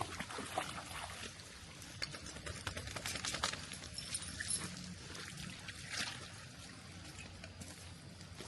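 Dogs splashing in shallow floodwater, with trickling and pouring water sounds and a run of quick splashes through the middle.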